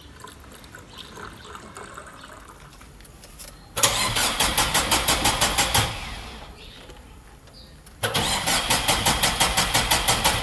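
A car's starter motor cranking the engine over in two bursts of about two seconds each, with an even rapid pulsing of several beats a second.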